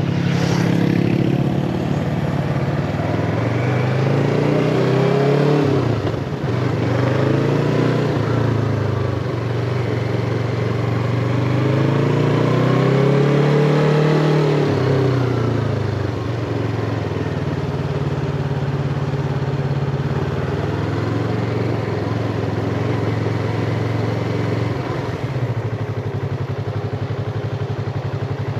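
Yamaha MT-25's parallel-twin engine heard from the rider's seat, its pitch rising and falling as the throttle opens and closes, with sudden drops at gear changes. The second half settles into a steadier pitch.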